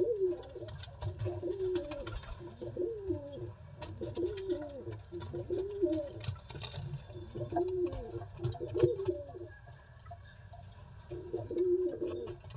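Pigeon cooing over and over, low calls that rise and fall, about one a second, pausing briefly about ten seconds in before a last few coos. Faint clicks sound here and there.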